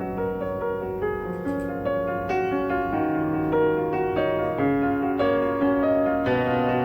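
Soft background piano music, a slow melody of single notes over held chords.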